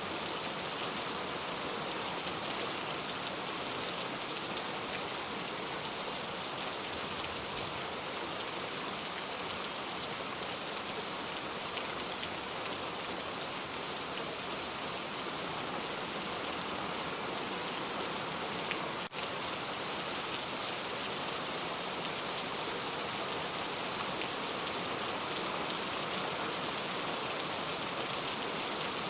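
Steady rain falling, a dense even patter of drops, with a momentary dip in the sound about two-thirds of the way through.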